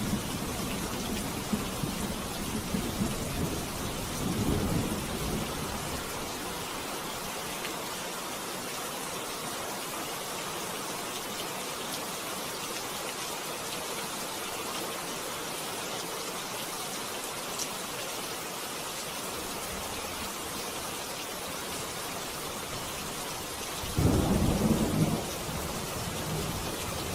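Steady rain falling, with low rolls of thunder in the first few seconds and a louder, short thunder rumble near the end.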